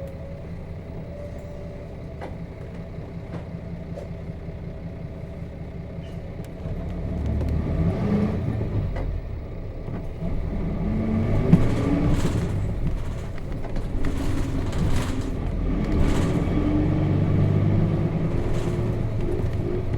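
Nissan Diesel KC-RM211GSN bus's FE6 inline-six diesel running quietly, then pulling away about six seconds in, its pitch rising under acceleration with a brief drop near ten seconds as a gear is changed on the manual gearbox. A sharp click sounds about eleven and a half seconds in.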